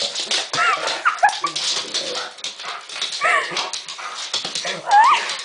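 Dog whining and yipping in short high cries that bend up and down, a few times, over a steady hiss and scattered clicks.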